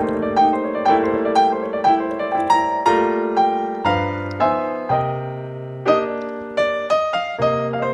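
Background piano music: a steady flow of notes over held bass notes.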